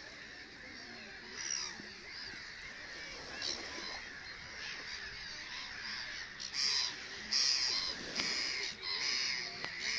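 A bird calling again and again, a handful of calls spread out and coming louder and closer together in the last few seconds.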